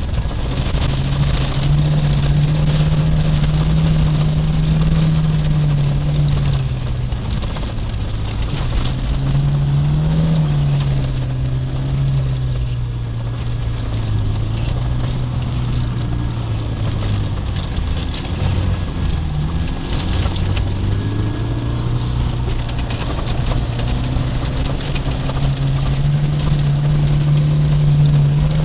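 VAZ-2108 (Lada Samara) four-cylinder engine pulling hard, its note rising and falling again and again as the car accelerates and eases off, over a steady rush of road noise.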